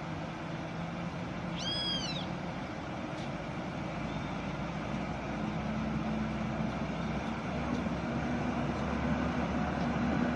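Heavy truck engine running steadily under a constant noisy rumble, its note rising a little about halfway through. A short high squeal rises and falls about two seconds in.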